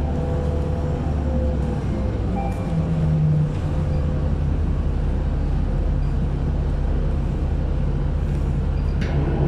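City bus engine and road noise heard from inside the bus: a steady low hum whose engine note rises slightly about two and a half seconds in.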